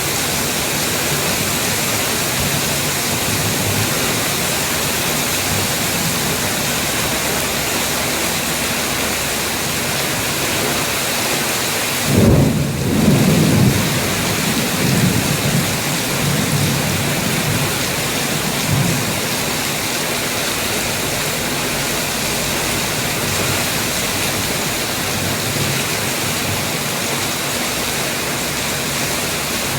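Heavy rain falling steadily. About twelve seconds in, a low roll of thunder breaks in suddenly and rumbles on unevenly for several seconds.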